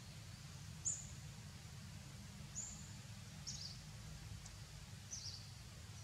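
A few short, high bird chirps, four spread over the seconds with the first the loudest, over a steady low outdoor rumble.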